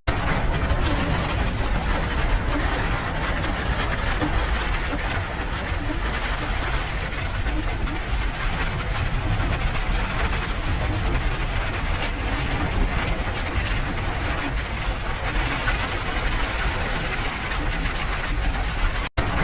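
Steady rain noise over a deep, constant low rumble, with a brief dropout about nineteen seconds in.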